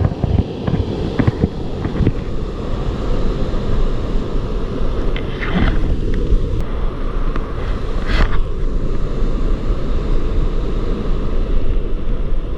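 Steady low rumble of wind buffeting the camera microphone, with a few knocks in the first couple of seconds and two short hisses around the middle.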